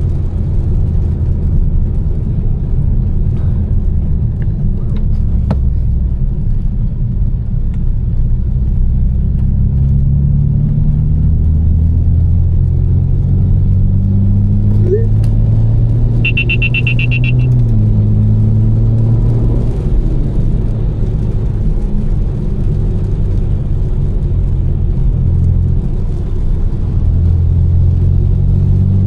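Tuned twin-turbo straight-six of a BMW M4 with catless downpipes and an aftermarket exhaust, running at low revs while driving: a deep steady note whose pitch creeps up and drops back in steps several times. An electronic chime sounds for about a second around the middle.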